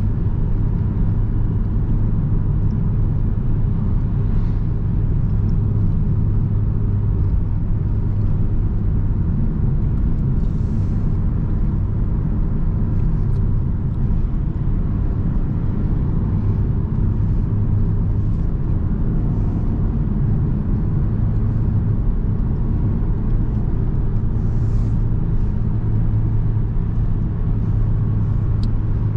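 A car being driven at a steady pace: engine and road noise make a constant low rumble that doesn't rise or fall.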